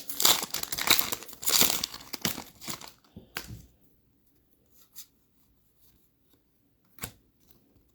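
A trading card pack wrapper crinkling and being torn open for about three seconds, then a few soft clicks as the cards are handled.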